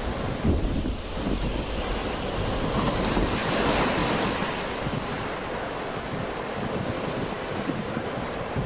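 Sea waves breaking and washing on the shore, one wave swelling to a peak about halfway through and then easing off, with wind buffeting the microphone.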